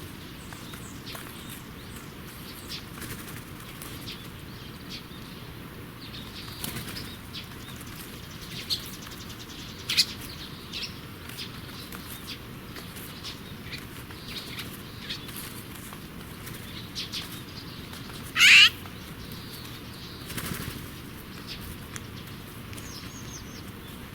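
Wild small-bird sounds: scattered short, sharp notes and clicks over steady background hiss, with one louder short call about three-quarters of the way through.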